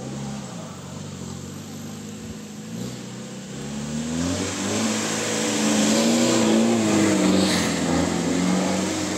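Mahindra 4x4 off-road vehicle's engine revving under load, its pitch rising and wavering up and down as it gets louder from about four seconds in.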